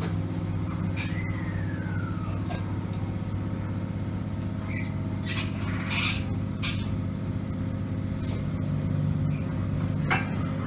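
Steady low hum of an electric train's onboard equipment while it stands at a station, with a few scattered clicks and a brief falling tone about a second in.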